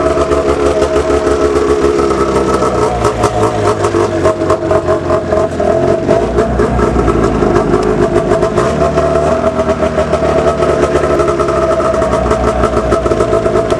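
1998 Arctic Cat ZR500 snowmobile's carbureted two-stroke engine running just after a cold start with the choke on full, its speed wavering up and down a few times.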